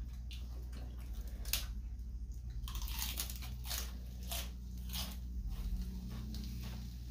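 Close-miked eating: crisp lettuce and grilled beef being bitten and chewed. There is a single sharp crunch about a second and a half in, then a quick run of crunching from about three seconds to five and a half.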